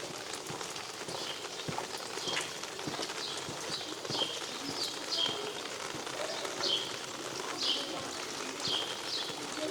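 A small songbird calling over and over with short, high notes, each dropping in pitch and often coming in pairs, over the steady patter of rain.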